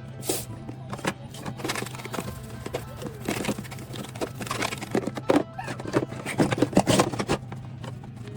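Dishes and kitchenware clattering and knocking as they are handled and washed, a run of sharp knocks between about five and seven seconds in, over soft background music.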